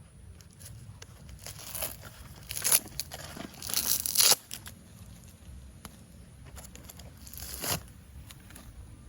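Package wrapping being torn and crumpled open by hand in a few separate rips, the longest and loudest about four seconds in.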